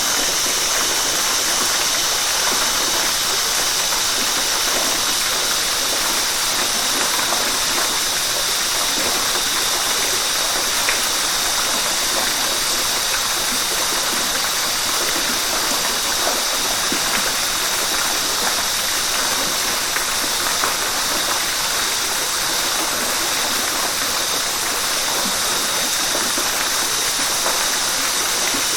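River water rushing steadily: an even, bright hiss with no breaks.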